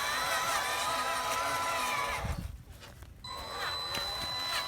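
Small electric motors of a remote-control model truck whining, with a pitch that wavers and two steady high tones underneath; about two seconds in the sound drops away briefly with a low thud, then resumes.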